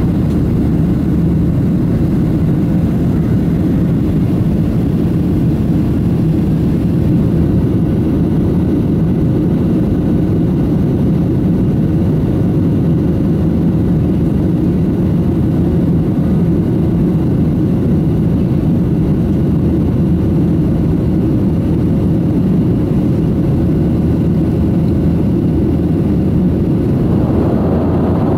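Cabin noise of a Boeing 737-700 climbing after takeoff, heard from inside the cabin: a steady, loud low rush of its CFM56-7B engines and airflow with a faint steady hum. Near the end a higher hiss swells in.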